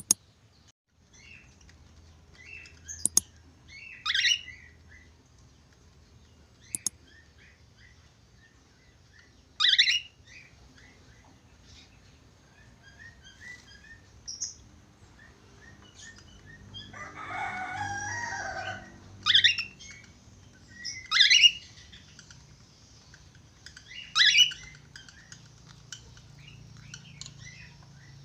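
Budgerigar calling: a string of short, sharp chirps, with a longer warbling phrase about two-thirds of the way through and a couple of sharp clicks early on.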